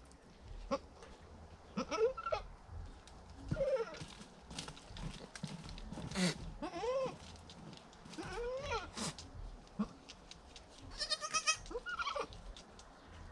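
Goats bleating: a doe and her newborn kids give about half a dozen short calls, spread out, with a couple of sharp knocks between them.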